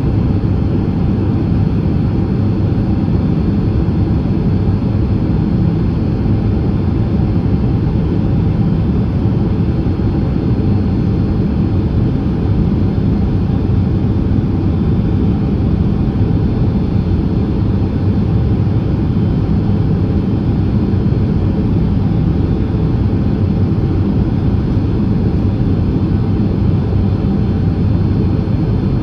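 Steady cabin noise inside a Boeing 767-300ER on final approach with gear and flaps down: engine and airflow noise, low and even, with faint steady high tones above it.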